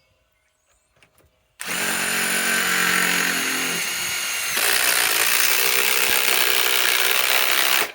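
Ryobi PSBIW25 compact cordless impact wrench driving a 5/16 by 3 inch galvanized lag screw into wood, in one continuous run of about six seconds starting a little over a second and a half in. Its sound changes and gets slightly louder about halfway through the run, then cuts off.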